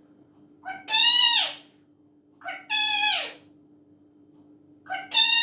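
Pet parrot calling loudly three times, about two seconds apart, each call a short note followed by a longer call that falls in pitch.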